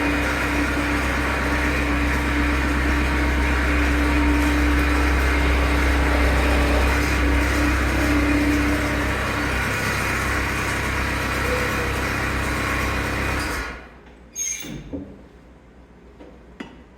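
Skid steer engine running steadily, then cutting off sharply near the end, followed by a few light knocks.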